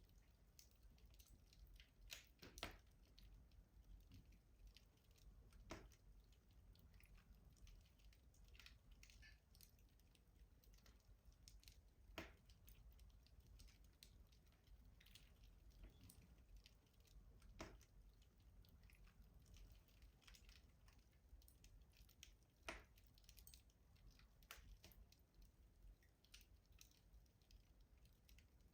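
Wood fire burning in a rustic stove, crackling softly with scattered small ticks and about half a dozen sharper pops, a couple of them close together a couple of seconds in.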